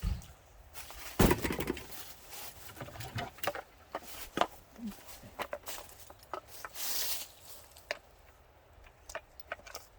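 Irregular handling noises of someone working by hand while setting up a fire: scattered knocks, clicks and rustles, with a louder clatter about a second in and a short hissing rustle near seven seconds.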